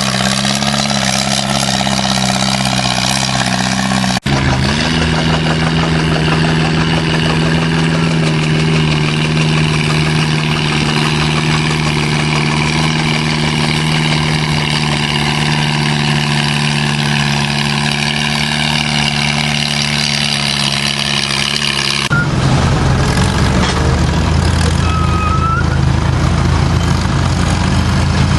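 Antique tractor engine running at a steady speed with an even pitch. It cuts off suddenly about four seconds in, then resumes. Near the end it switches abruptly to a lower, rougher engine sound.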